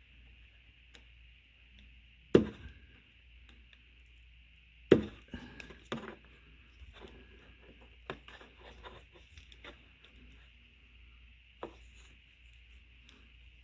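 Two sharp knocks, about two and a half seconds apart, followed by scattered lighter clicks and taps of things being handled, over a steady faint hiss.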